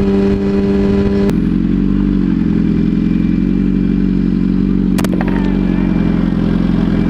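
Yamaha R1 sport bike's inline-four engine running steadily while riding. The engine note changes abruptly a little over a second in, and there is a short sharp click about five seconds in.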